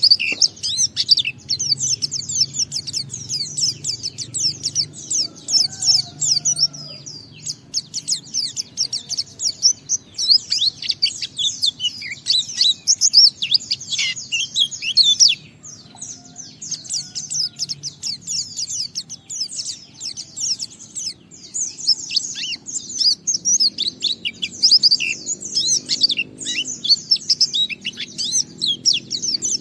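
A white-eye (pleci) singing a long, fast, rambling 'ngalas' song of high twittering notes, with a brief pause about halfway. A faint low hum runs underneath.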